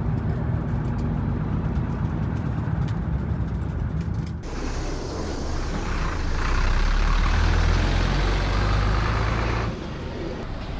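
Bus engine running with road noise. The sound changes abruptly about four seconds in, then swells to a louder low rumble that drops off near the end.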